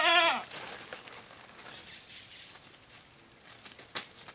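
A goat bleating once, a short quavering call that rises and falls, right at the start; then faint outdoor background with two sharp clicks near the end.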